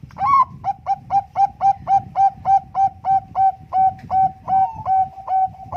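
Bangkok-strain zebra dove (perkutut) singing: a rapid, even series of short cooing notes, about four a second, flowing into a longer drawn-out note near the end.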